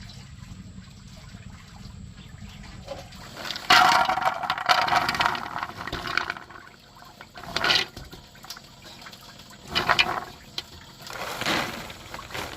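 Water gushing and splashing in several surges: a long rush that starts suddenly a few seconds in, then three shorter gushes.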